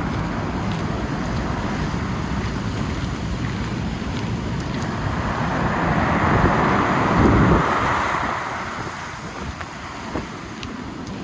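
Wind blowing on the microphone with surf breaking below the cliffs. The sound swells to its loudest about six to eight seconds in, then eases.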